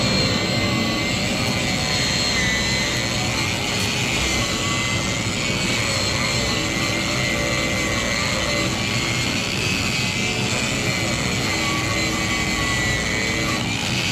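A machine running steadily with a high whine over a low rumble, without any change in speed.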